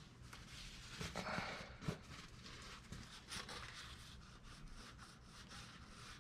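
Faint hand-work noises on an engine part: light rubbing and handling, a short hiss about a second in, and a sharp click near two seconds.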